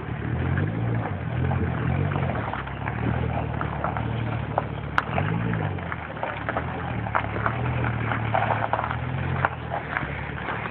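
Chevrolet Camaro SS V8 running through a Borla exhaust with a K&N intake, a low rumble whose pitch rises and falls a few times with the throttle. A sharp click about five seconds in.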